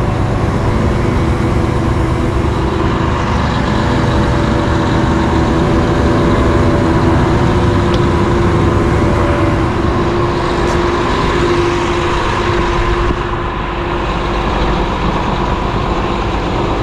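Cat 725 articulated dump truck's diesel engine idling steadily.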